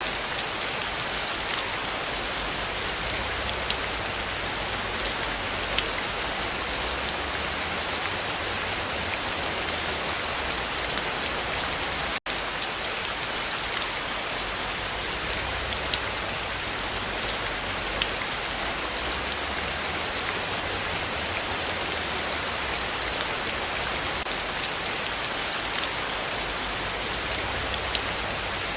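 Heavy rain falling steadily, with many individual drops ticking. The sound cuts out for a split second about twelve seconds in.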